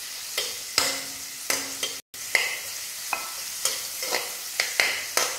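Onion slices frying in melted margarine in a wok: a steady sizzle under repeated scrapes and clinks of a spatula stirring against the pan, about two a second, some ringing briefly. The sound cuts out for an instant about two seconds in.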